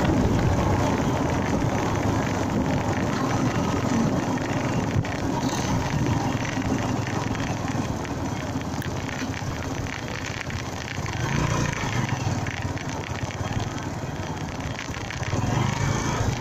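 Honda Mega Pro motorcycle running on the road, its engine mixed with road and wind noise, with swells of passing traffic about 11 and 15 seconds in.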